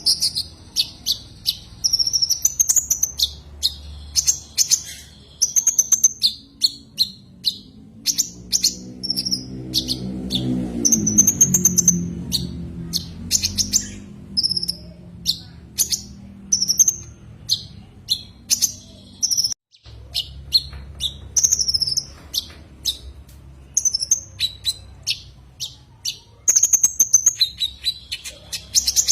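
Sunbird known as 'kolibri ninja' (konin) singing a rapid run of sharp, high chirps and short whistled trills: its call to a rival, used to lure one in. A low hum swells and fades around the middle.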